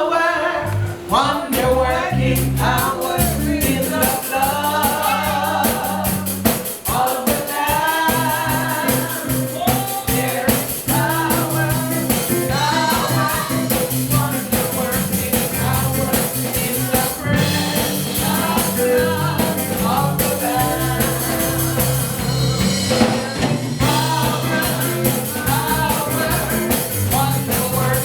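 Live gospel praise-and-worship music: a band with bass and drum kit accompanying singing voices.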